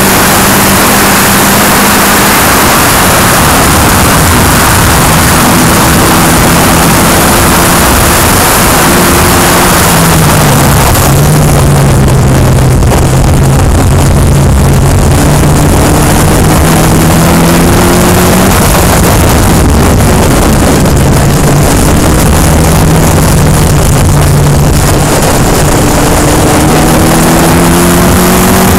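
Open-wheel track car's engine running at speed on a lap, its pitch climbing slowly as it accelerates, twice. Heavy wind rush on the onboard microphone over it, strongest for the first ten seconds or so.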